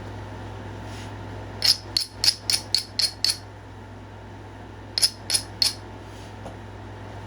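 Light knapping taps on a stone point being shaped: a run of seven sharp clicks about four a second, a pause, then three more. A steady hum from a fan or air conditioner runs underneath.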